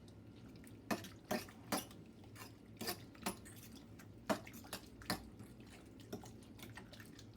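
A fork stirring crushed pineapple and pudding mix in a bowl, with irregular clicks and taps of the fork against the bowl and a wet squish.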